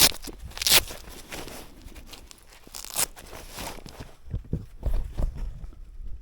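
Close rustling and crackling, with three sharp crackles in the first three seconds and a few low thumps later on.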